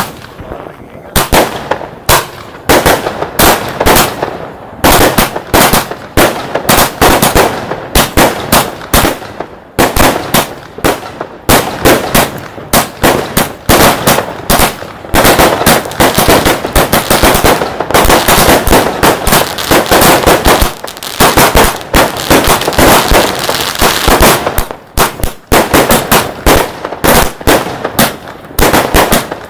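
Class 4 (professional-grade) fireworks battery firing a rapid, almost continuous barrage of bangs, starting about a second in, with a few brief lulls.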